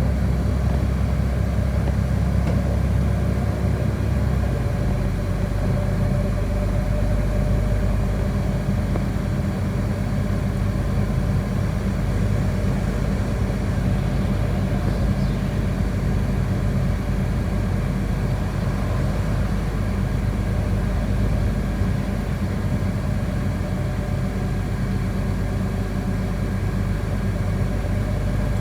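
City bus heard from inside the cabin: a steady engine drone with road noise, the low engine note changing about four seconds in.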